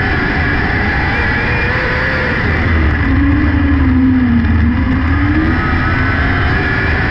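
600cc micro sprint car engine running hard at racing speed, its revs dipping for a couple of seconds about three seconds in and then climbing back up.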